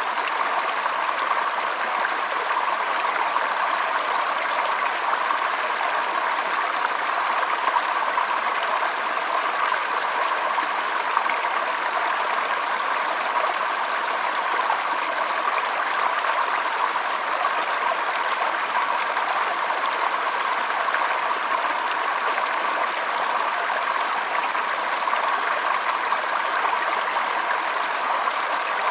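Shallow stream flowing and trickling, a steady, unbroken babble of water.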